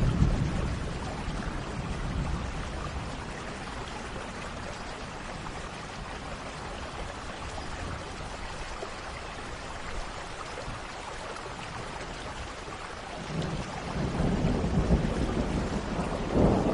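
Steady rain with thunder rumbling. A roll of thunder dies away in the first couple of seconds, and another rolls in about three seconds before the end, growing louder.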